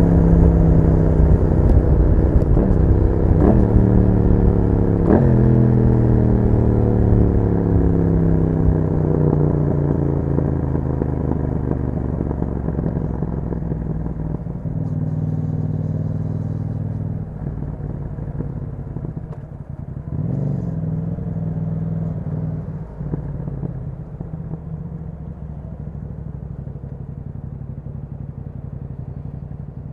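2021 Yamaha MT-07's parallel-twin engine through an Akrapovic exhaust, revs falling as the bike slows, with two quick jumps in pitch a few seconds in like downshifts. It then runs low and steady, with a brief blip of throttle about twenty seconds in.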